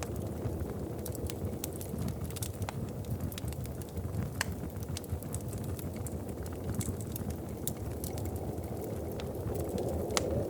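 Wood fire in a fireplace crackling, sharp irregular pops and snaps several times a second over a low steady rumble of the burning fire. A low rushing sound swells near the end.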